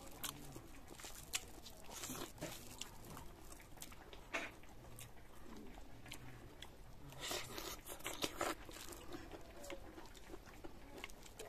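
Faint close-up eating sounds: chewing, lip smacks and occasional soft crunches as rice is eaten by hand. The clicks come scattered, with a quicker run of them about seven to eight seconds in.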